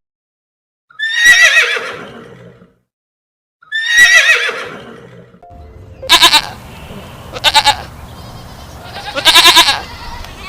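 Farm animal calls: two quavering calls, each about a second long and falling in pitch. After them come shorter, bleat-like calls over a steady hiss, the last and longest near the end.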